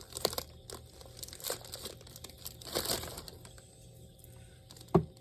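Packaging crinkling and rustling in short bursts as groceries are handled and put away, with one sharp knock near the end.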